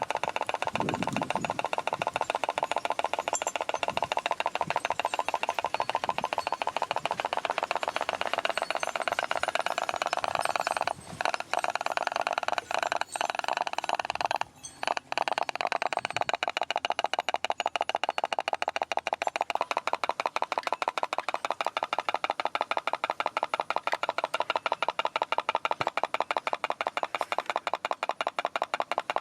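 Homemade pop-pop boat's simple steam engine popping in a fast, steady rhythm, with two brief breaks near the middle.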